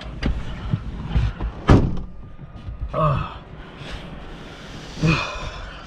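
Semi truck's diesel engine idling, with one sharp bang nearly two seconds in and a couple of short grunts or mutters later on.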